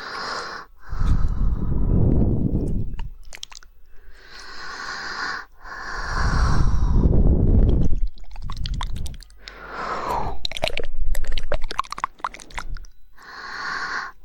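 Close-miked ASMR mouth sounds: a person breathes and makes wet mouth noises into the microphone, in long stretches that alternate with runs of quick tongue clicks, the densest run about ten to twelve seconds in.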